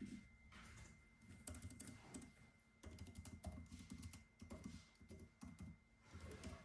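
Faint typing on a computer keyboard: quick, irregular runs of keystrokes in short bursts.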